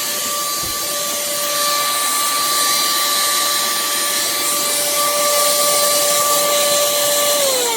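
pemacom 10 kPa cordless handheld vacuum running steadily, sucking up dirt from a countertop: an airy hiss with a steady motor whine. Near the end it is switched off and the whine falls in pitch as the motor spins down.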